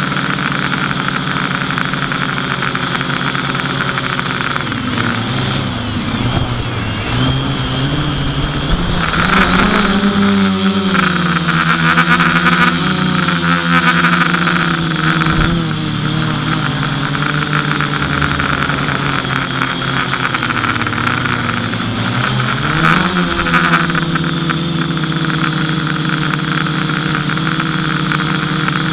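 FPV quadcopter's electric motors and propellers whining steadily, the pitch swooping up and down with throttle changes, loudest and highest about ten to fifteen seconds in and again around twenty-three seconds.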